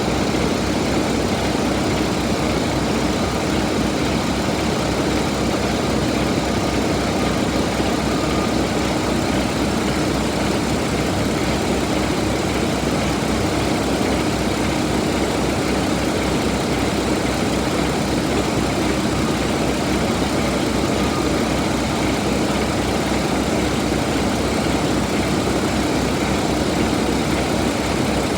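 Paccar MX13 inline-six diesel engine idling steadily, with an even low pulsing beat.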